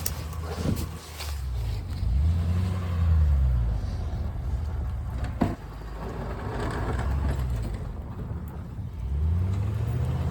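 Plow truck's engine running, revving up and easing off twice. A sharp knock comes about five seconds in.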